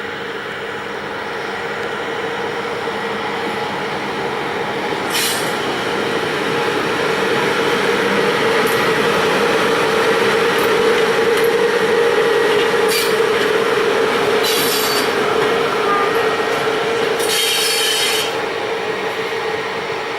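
Freight train rolling past, growing louder over the first ten seconds, with a steady droning tone under the rumble. Wheels squeal against the rails in several short high-pitched bursts.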